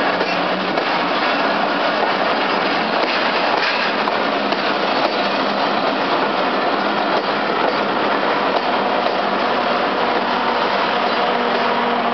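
Passenger coaches rolling past at close range, their wheels running on the rails in a steady, loud noise.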